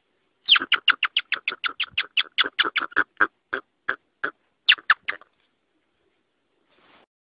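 Rock hyrax calling: a series of nearly thirty short, sharp calls, about eight a second at first, then spacing out and stopping after a final quick three about five seconds in.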